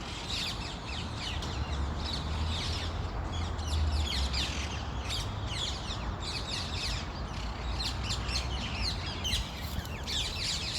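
A large flock of rose-ringed parakeets calling noisily, a dense chorus of many short, overlapping, high-pitched calls, over a low rumble.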